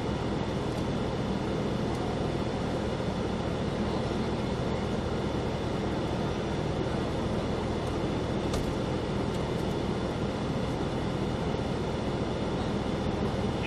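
Cadillac CT5-V Blackwing's supercharged 6.2-litre V8 idling steadily, with a single short click a little past the middle.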